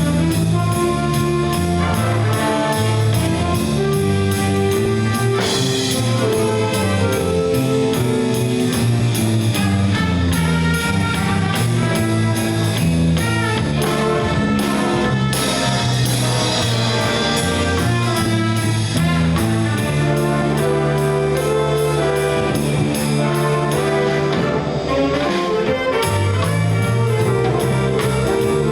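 Jazz band playing an instrumental number: brass section over drum kit and guitar with a steady beat.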